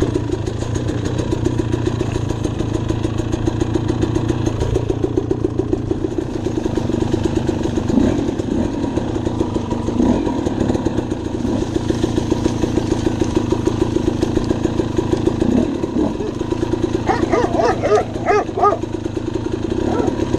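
Dirt bike engine running steadily while being ridden, its revs briefly rising and falling a few times as the throttle changes.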